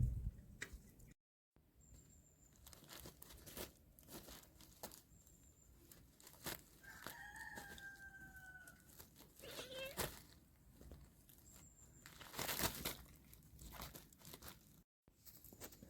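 A rooster crowing once, faint and falling slightly in pitch, amid scattered clicks and rustles.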